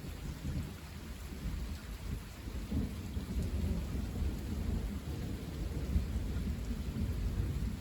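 Thunder rumbling low and continuously, rising and falling without a sharp crack, over steady rain.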